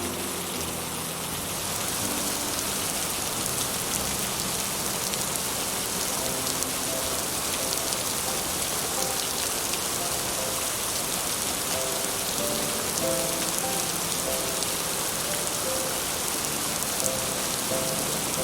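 Heavy rain falling steadily on a roof, a dense hiss of many drops, with soft, sparse music notes underneath.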